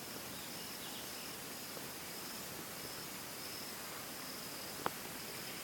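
Quiet outdoor ambience: a steady hiss with faint insects chirping in short repeated bursts, and one sharp click near the end.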